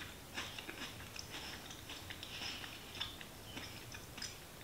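Crunchy green pea snack crisps being chewed with the mouth closed: quiet, irregular crunching.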